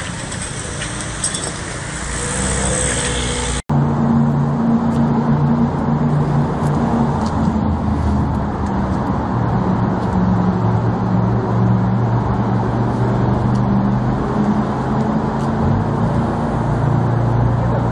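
Car engines and road traffic. About four seconds in the sound cuts abruptly to a loud, steady low engine hum that runs on with traffic noise.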